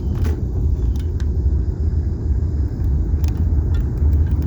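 Steady low rumble of a car driving slowly, heard from inside the cabin, with a few faint clicks scattered through it.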